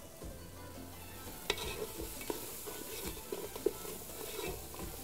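Onions, tomato paste and spices sizzling in an aluminium pot, with a wooden spoon stirring and scraping the bottom in a few sharp strokes.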